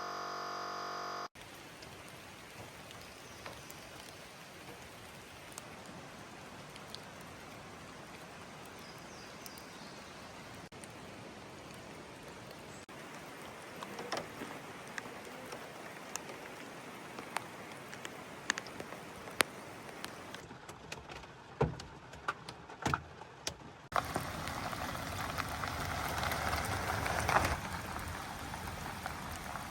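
Steady rain falling, with scattered sharp drop hits close by; the rain is louder over the last few seconds. A short pitched hum sounds in the first second or so.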